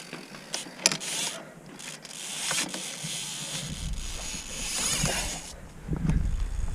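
Mountain bike on a dirt trail: scraping and rubbing from the tyres and brush, with a mechanical ratcheting like a freewheel hub and a few sharp clicks. A low rumble comes in about halfway through and grows.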